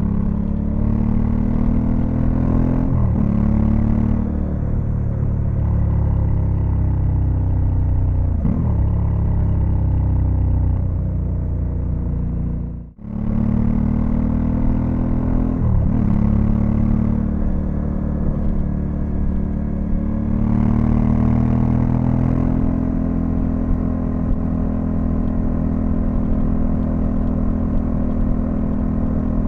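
Honda Africa Twin CRF1100L's parallel-twin engine running under way, its pitch dipping and rising sharply at several gear changes with slower falls in between. There is a brief gap in the sound about 13 seconds in.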